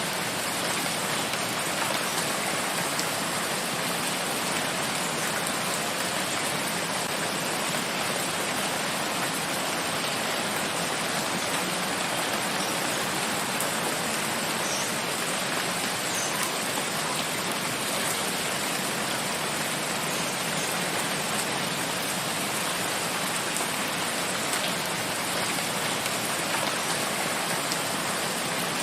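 Steady rain falling in a forest, an even hiss with scattered drops.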